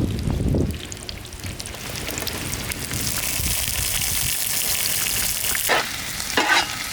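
Chopped celery, capsicum and onion sizzling as they fry in hot ghee, after a brief low rumble at the start. The hiss builds up about two seconds in and holds steady.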